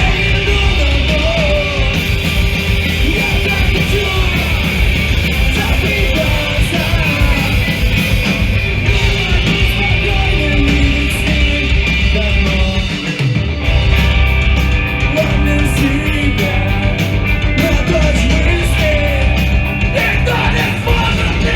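Live emo-hardcore band playing loud, with yelled vocals over the full band. The low end drops out briefly about thirteen seconds in, then the band comes back in.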